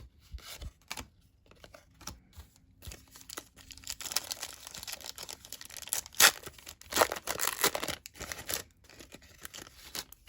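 Crinkling and tearing of a trading-card pack wrapper being ripped open by hand: a few light handling clicks, then a few seconds of dense scratchy rustling and tearing, then quieter handling near the end.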